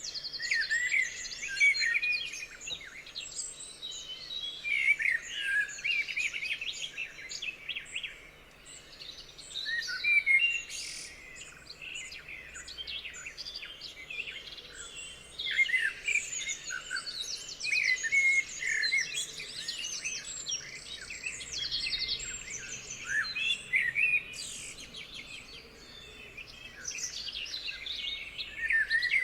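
Several songbirds singing and calling at once, a busy dawn-chorus-like mix of chirps, whistles and rapid trills, with a short lull about eight seconds in.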